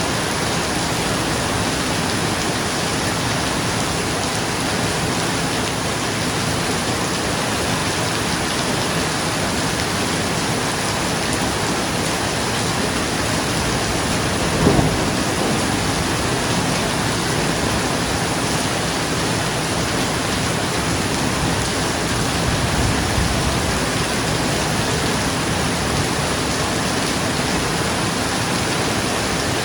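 Steady heavy rain falling on a roof, with a short clap of thunder about halfway through and a fainter low rumble of thunder a few seconds later.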